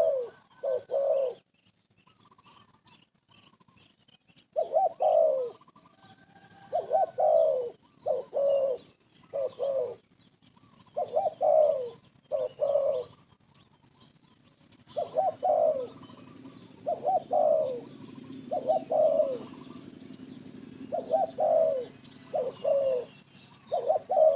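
Spotted dove (terkukur) cooing: repeated phrases of two or three husky, falling coos with short pauses between them. A quiet gap comes early, and about two-thirds of the way in a low steady hum starts underneath the calls.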